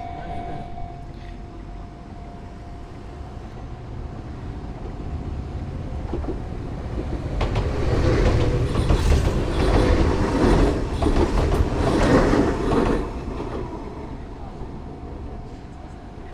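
Enoshima Electric Railway (Enoden) train passing close by, its wheels clacking over the rail joints. The sound builds up, is loudest through the middle, then fades away.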